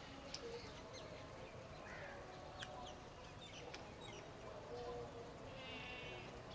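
Scattered short, high bird chirps and calls, faint, with a short buzzy rattling call near the end.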